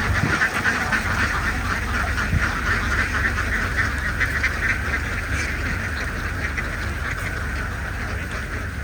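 A large flock of domestic ducks quacking continuously, many calls overlapping into one dense chatter, over a steady low rumble.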